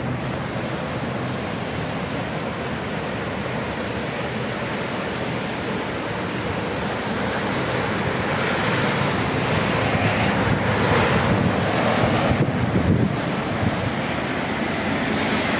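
Heavy rain falling: a steady rushing noise that grows somewhat louder in the second half.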